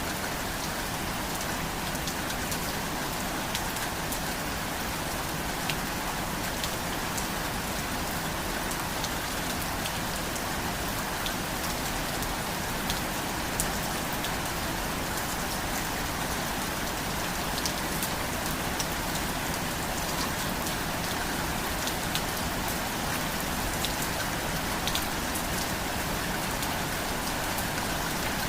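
Steady rain falling, an even hiss with many sharp drop patters scattered through it.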